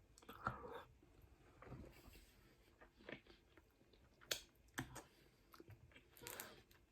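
Quiet, close-miked chewing: soft wet mouth clicks and smacks of a person eating a pasta meal, coming in irregular short bursts a second or so apart.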